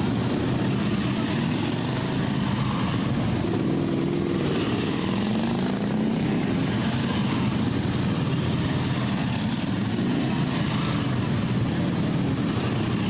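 Several Harley-Davidson Police Special V-twin motorcycle engines running together at low speed in a steady drone, their engine notes rising and falling as the machines pass one another.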